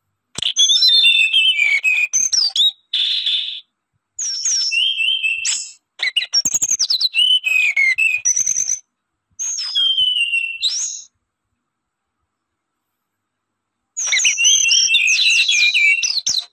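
A small songbird chirping and twittering in quick, high, sliding whistled notes. The song comes in about six separate bursts, each cut off abruptly, with a long silent gap before the last burst.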